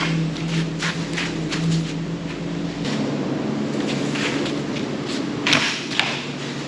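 An engine running steadily, its deep rumble dropping away about three seconds in, with a few sharp knocks near the end.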